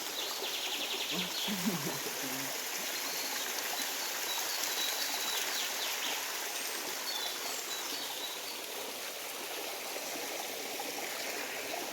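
Running water of a stream, a steady rushing, with a few short bird chirps over it.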